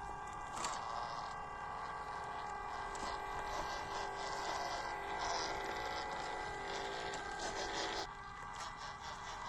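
The electric motor and gearbox of a 1/16-scale WPL C24 RC crawler whine steadily as it drives, with scratchy noise over the top. The whine partly drops away about eight seconds in.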